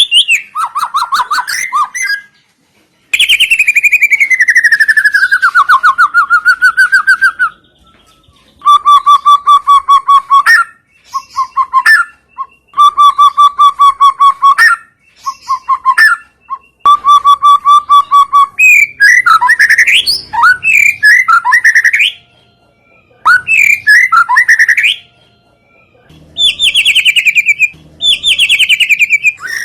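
Recorded songbird calls played as a lure to set caged white-rumped shamas singing: phrases of fast repeated chirps and trills a few seconds long, with short gaps between them. There is one long falling whistle about three seconds in.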